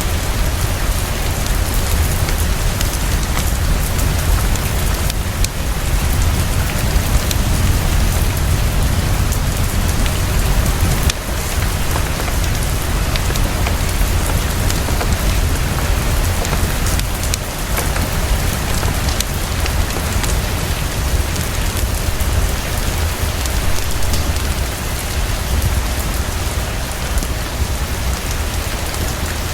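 Heavy, steady rainfall: a dense even hiss over a deep low rumble, with scattered sharp ticks.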